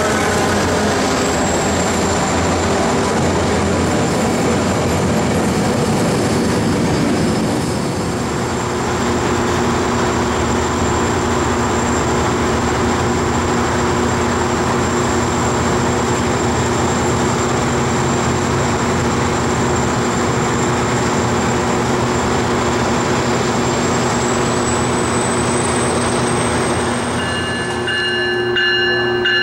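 Tri-Rail commuter train of double-deck coaches with its diesel locomotive passing close by: a steady, loud rumble of wheels on rails and engine drone, with a high steady whine over it. The loudness dips briefly about eight seconds in, and the whine rises slightly near the end.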